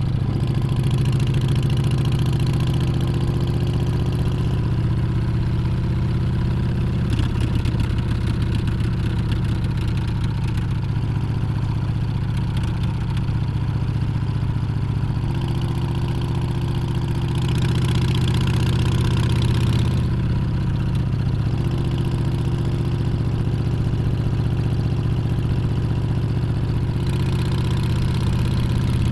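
Harley-Davidson Street Bob's Milwaukee-Eight 114 V-twin engine and exhaust running under way, the engine note shifting up and down several times as the rider works the throttle.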